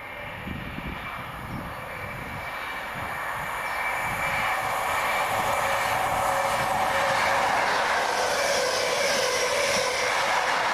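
InterCity 125 high-speed train, a Class 43 diesel power car leading, approaching and running through the station at speed. The rush of wheels on rail and engine noise grows louder over the first few seconds and stays loud as the power car passes close by.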